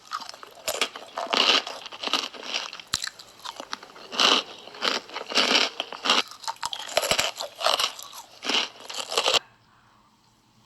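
Close-miked crunching and chewing of hot Cheetos in irregular bites, loud and crisp. It cuts off suddenly about nine seconds in, leaving only a faint background hum.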